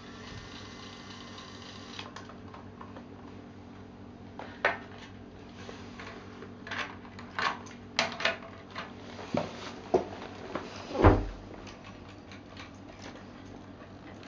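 Lego Technic plastic parts clicking and knocking as a module is handled and fitted onto the truck: scattered sharp clicks, with one heavier knock about eleven seconds in, over a low steady hum.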